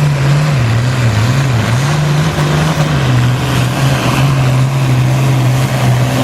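International Harvester 966 pulling tractor's engine running hard under load on the sled. Its pitch wavers up and down in the first two seconds, then holds steady.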